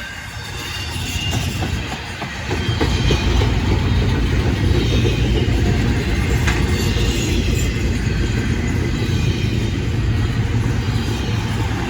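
Freight train rolling past, its wheels on the rails making a steady rumble that builds about two seconds in and then holds.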